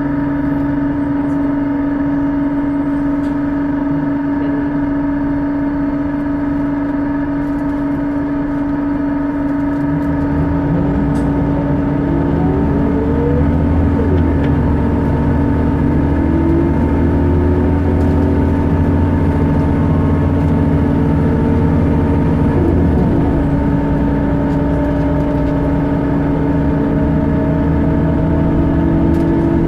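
Bus giving off a steady whine over its running engine, the odd noise it is known for. About ten seconds in the engine note grows louder and deeper, and rising whines sweep up as the bus gets under way.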